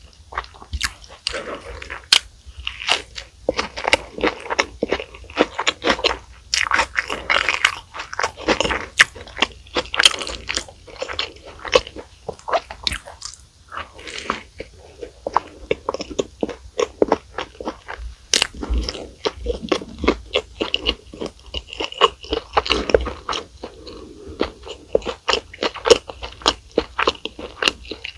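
Close-miked eating of crunchy fast food: a person bites and chews, with dense, irregular crunching and crackling and wet chewing in between.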